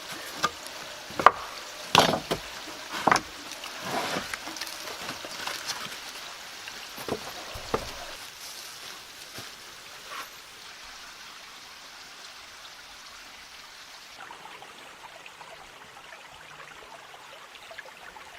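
Several sharp, irregularly spaced knocks of wood being handled during pallet shelter building, fading out after about eight seconds into a faint steady hiss.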